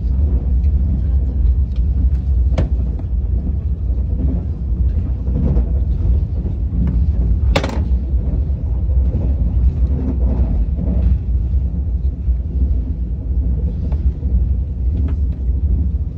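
Steady low rumble of a KTX high-speed train running at speed, heard from inside the passenger cabin, with one sharp click about halfway through.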